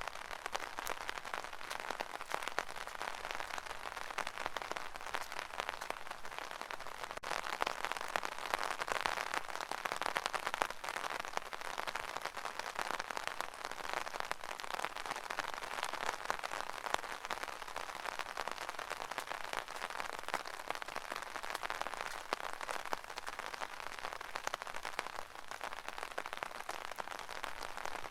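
Rain falling steadily on an umbrella: a dense, even patter of countless small drop hits.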